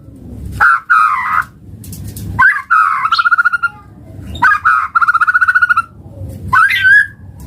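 White-rumped shama (murai batu) singing: four loud phrases about two seconds apart, each a fast rattling trill held on one pitch, one opening with an upward sweep.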